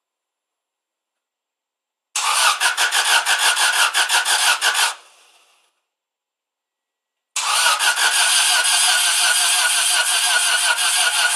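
1995 Subaru Impreza WRX's starter cranking the engine in two attempts, one of about three seconds and a second of about four, each with an even, quick pulsing and no sign of the engine catching. The engine will not start because one or more valves are stuck open, leaving no compression.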